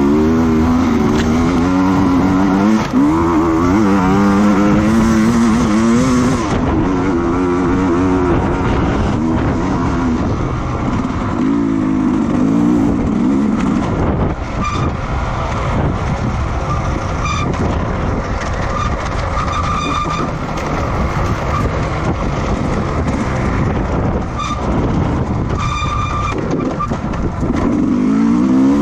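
Racing motorcycle engines at high revs, the pitch rising and falling as bikes accelerate and shift, strongest in the first eight seconds and again near the end, over a steady rush of noise.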